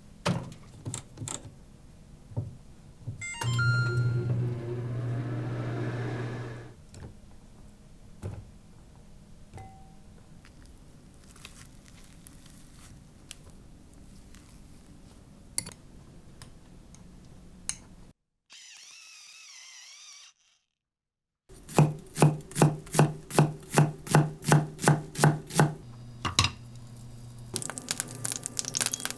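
Kitchen work sounds: scattered knocks and clatters, a steady electric hum lasting about three seconds near the start, then a quick run of about fourteen knife chops on a cutting board, about three a second.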